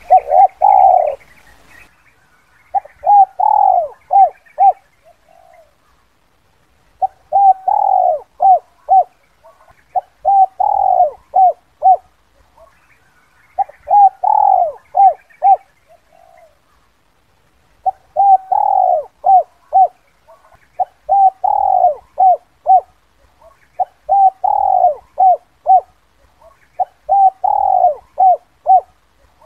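Spotted dove cooing in its 'kuk 2' call: a phrase of short coos with a longer, louder note near the start, repeated about every three to four seconds.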